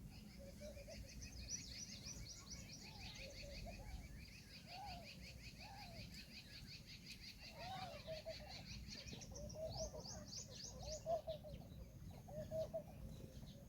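Indian peahen giving short, soft calls about once a second, each note rising and falling, with a faster high-pitched bird trill running over most of it against faint outdoor background noise.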